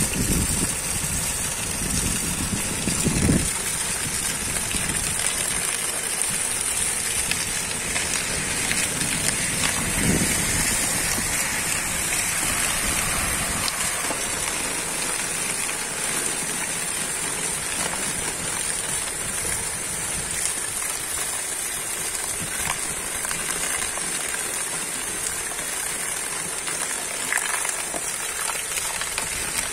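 Heavy rain falling steadily on a flooded street, with a stream of water pouring down close by. Around the middle, a car drives through the floodwater, its tyres splashing up a wake.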